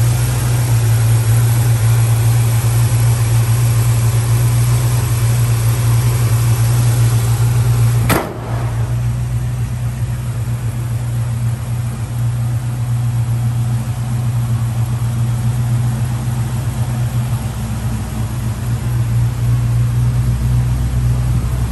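350 V8 engine of a custom 1975 International Scout idling steadily. A sharp click about eight seconds in, after which the engine sounds a little quieter.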